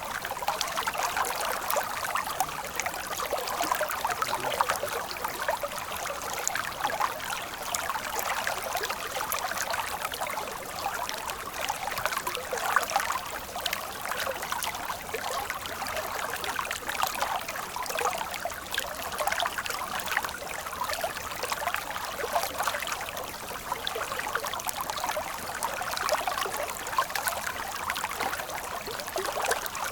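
Running stream water, flowing and splashing steadily, with little low rumble.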